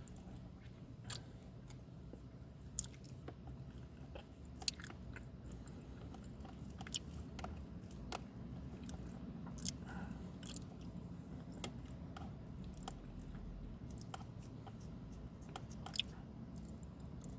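A person chewing and biting food close to the microphone, with scattered sharp mouth clicks over a low steady background.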